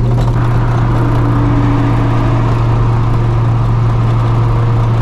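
Straight-piped, Procharged two-valve V8 of a 1999 Mustang GT cruising at a steady engine speed, giving a loud, even exhaust drone.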